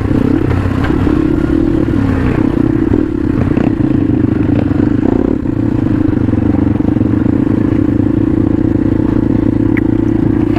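Motorcycle engine running steadily under way, with clatter and rattling from the bike as it rides over a rough, hilly dirt trail.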